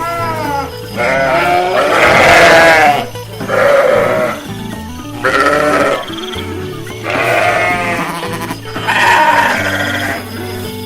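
Sheep bleating, about six wavering bleats of roughly a second each with short gaps between them, over background music with a steady low bass line.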